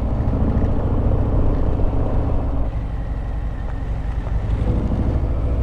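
Harley-Davidson Sport Glide's V-twin engine running steadily, the level easing slightly in the middle.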